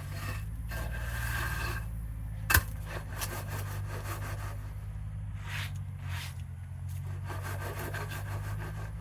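Scraping and rubbing, as of an object being shifted or rubbed against wood, in two spells. One sharp knock about two and a half seconds in, over a steady low hum.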